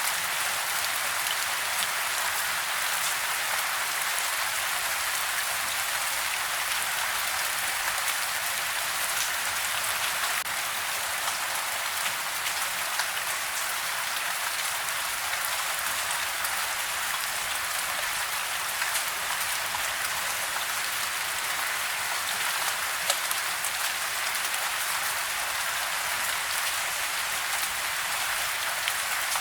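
Steady rain falling on surfaces, a dense even hiss with many small drop ticks.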